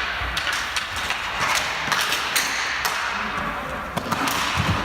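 Ball hockey play: repeated sharp clacks and thumps of sticks, ball and boards, with players' voices in the background.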